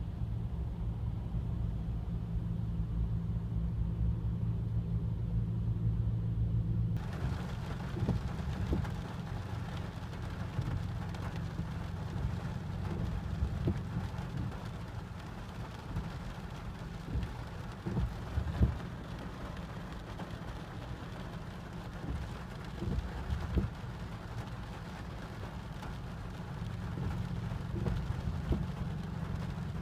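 Rain: a low steady hum runs underneath. About seven seconds in, the hiss of rain comes in suddenly over it, with scattered short knocks.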